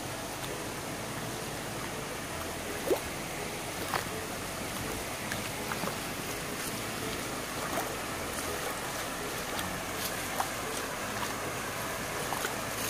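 Stream water rushing steadily, with a few short sharp sounds over it, the loudest about three seconds in.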